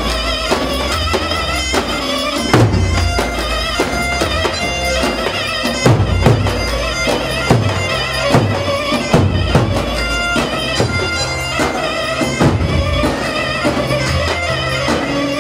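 Turkish folk dance music: a loud, reedy wind lead like a zurna, held over a heavy drum beat.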